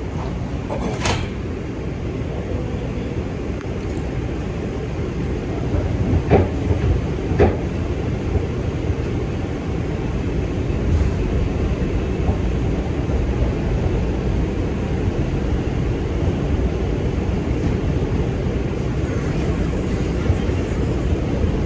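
New York City subway 2 train heard from inside the car as it pulls out and runs: a steady rumble of wheels on rail, slightly louder after about six seconds, with a few sharp clacks.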